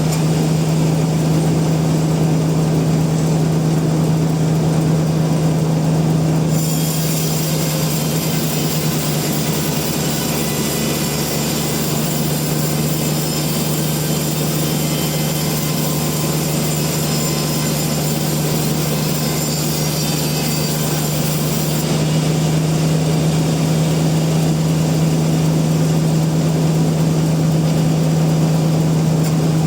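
Sawmill machinery running steadily with a strong constant hum, and a log being sawn: a higher cutting noise comes in suddenly about six seconds in and stops suddenly about two-thirds of the way through.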